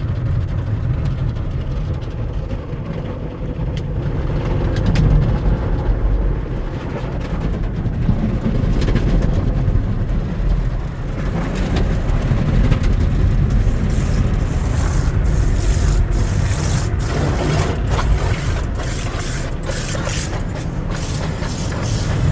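Car wash tunnel equipment heard from inside the car: a steady rumble of water spray and wash machinery. From about halfway through come many quick slaps and sprays against the body, typical of side brushes and jets working along the car.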